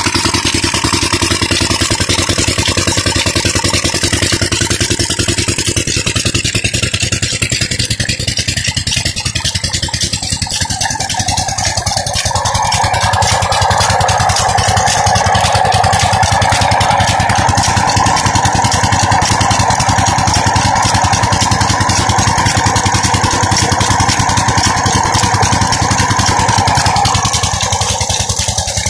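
16-horsepower Petter diesel engine of a tube well running steadily with a fast, even clatter of firing strokes. A steady higher tone joins about twelve seconds in and fades out near the end.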